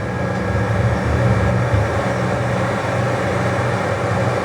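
McDonnell Douglas DC-10 trijet's engines at takeoff power, heard as a steady, loud cabin noise with a deep rumble underneath.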